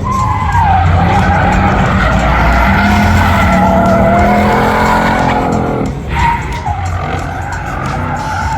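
A car drifting, with its engine held at high revs and its tires squealing in long, wavering tones. The sound eases briefly about six seconds in, then picks up again.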